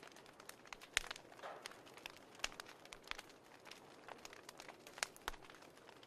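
Wood fire crackling, with irregular sharp pops and snaps over a soft hiss, the loudest pop about a second in and another just after five seconds.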